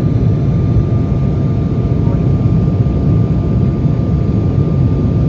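Steady cabin noise of an Embraer E175LR, heard from a seat behind the wing: a dense low rumble from its two GE CF34-8E5 turbofans, with a faint steady whine above it.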